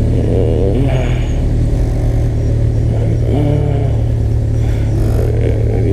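Kawasaki Ninja ZX-14R's inline-four engine running steadily at low revs while the bike creeps along in slow traffic.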